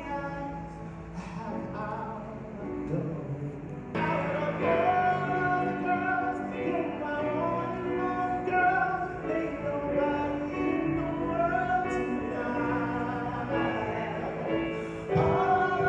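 Singing with music, several voices holding sustained notes together; it gets louder about four seconds in.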